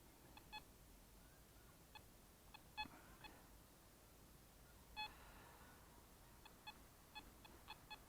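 Metal detector giving short, irregular electronic target beeps, about a dozen in all, the one about five seconds in slightly longer and louder.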